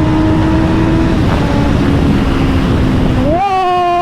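Honda CBR650R's inline-four running through an Austin Racing GP1R exhaust while riding, over wind noise. The engine note holds steady, eases down about a second in, then near the end revs sharply up, holds high and cuts off abruptly.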